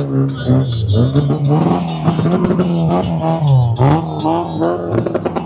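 Car engines revving, the pitch rising and falling in quick sweeps again and again, with a few sharp cracks near the end.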